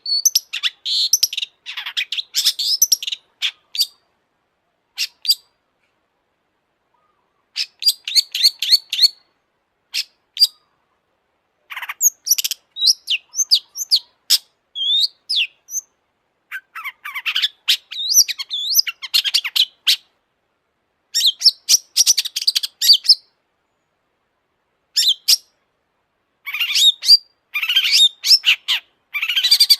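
Long-tailed shrike singing in bursts of rapid, varied high-pitched chattering and whistled notes, with short silent pauses between the phrases.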